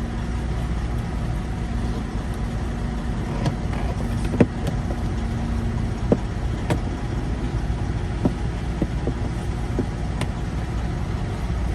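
Steady low drone of an idling engine, with scattered sharp clicks and taps from hand work on plastic dash clips and trim, the loudest about four and a half seconds in.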